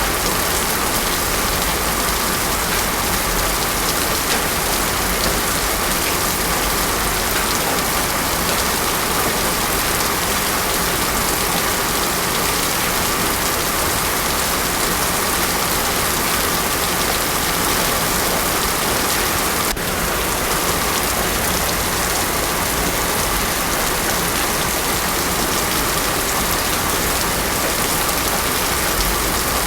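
Heavy rain pouring steadily onto a road surface, a dense even hiss with no thunder. There is a brief slight break in the sound about twenty seconds in.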